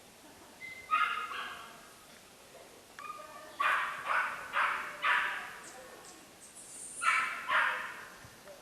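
A dog barking in short groups: one bark, then a run of four, then two more.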